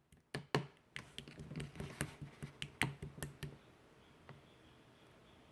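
Clear slime being pressed and squished, giving off a string of crisp irregular clicks and pops that stop about three and a half seconds in.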